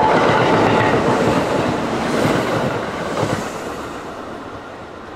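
Electric train running past, wheels knocking over rail joints, the rumble dying away as it moves off.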